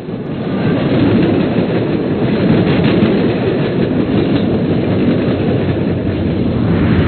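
A train running along its track: a steady rumbling clatter with faint repeated clicks of the wheels.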